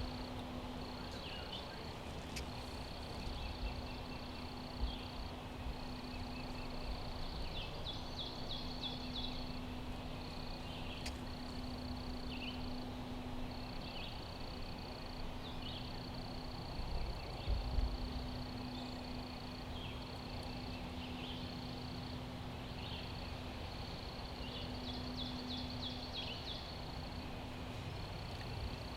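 Outdoor woodland ambience with songbirds: long high trills repeating every few seconds, with bursts of quick chirps twice. A low steady hum comes and goes beneath them.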